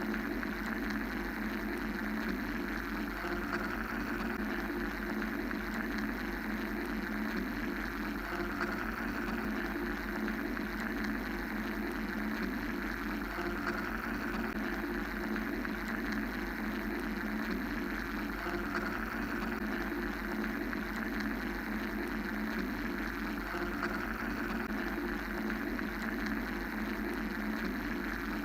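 Steady mechanical white-noise drone: an even, unchanging rushing hum with a low rumble, a strong lower hum band and a hiss higher up.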